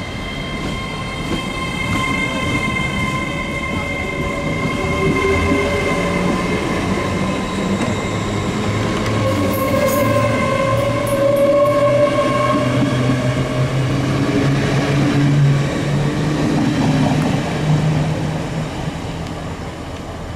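A train running through a station. A steady high whine sits above a lower note that rises in pitch, and the sound grows louder through the middle before easing off near the end.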